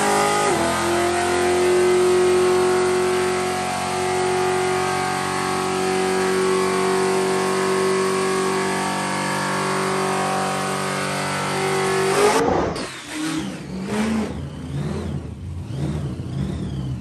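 Supercharged engine of a Holden HJ ute, breathing through a full new exhaust, held at a steady high rev during a burnout with the rear tyres spinning. About twelve seconds in the revs drop off abruptly, and the engine carries on at lower, uneven revs.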